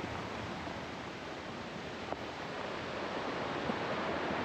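Ocean surf at high tide breaking against the seawall: a steady rushing wash that swells a little near the end.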